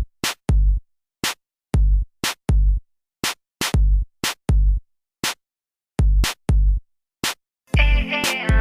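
Sparse electronic drum-machine beat opening a song: deep kick drum hits and sharp, crisp high hits with silent gaps between them. About 7.8 seconds in, a sustained synthesizer chord enters under the beat.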